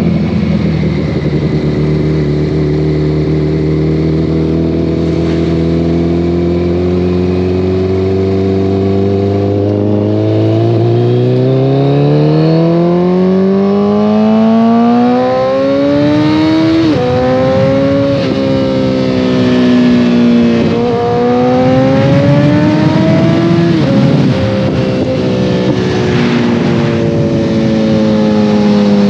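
2014 Kawasaki ZX-14R's inline-four with a full Brocks Alien Head 2 aftermarket exhaust. The engine pitch creeps up, then climbs harder through the gears, dropping sharply at each upshift, and falls away in the last few seconds as the throttle eases off.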